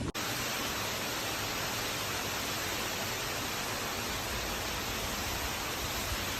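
A steady, even hiss of noise that starts abruptly just after the beginning and holds at a constant level throughout.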